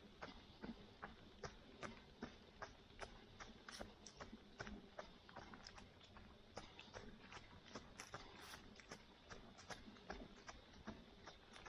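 Footsteps of a runner on a paved road, a steady rhythm of light, faint steps at about three a second.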